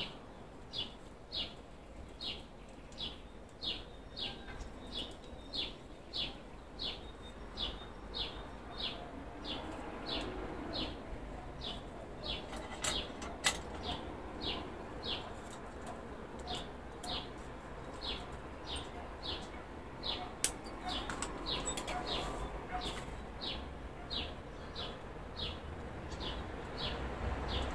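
A bird chirping over and over, one short high chirp about every two-thirds of a second, with a few sharp clicks around the middle.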